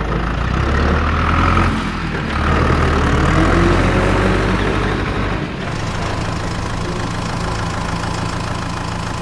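Small engine of a DIY mini tractor water pump running steadily.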